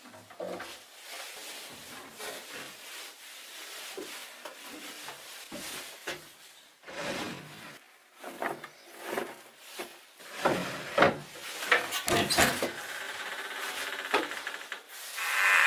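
Irregular scraping and rubbing strokes on wood, growing busier and louder about two thirds of the way through.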